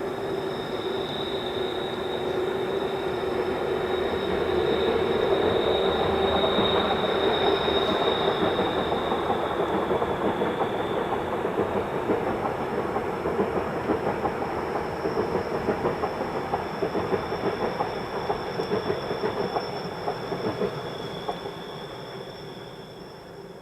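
Train passing on the Semmering railway, its wheels clattering rapidly on the track under a steady high whine. The sound swells over the first several seconds and fades away near the end.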